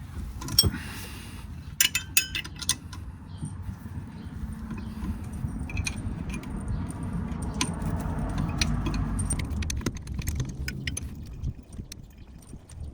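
Metal tools and parts clinking and rattling during work on a drive shaft, with a cluster of sharp ringing clinks about two seconds in. A steady low rumble follows for several seconds, with a few scattered clicks.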